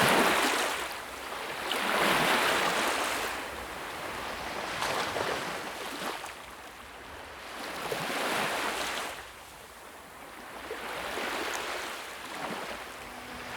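Sea waves breaking and washing up on a shore, each swell rising and falling away every two to three seconds.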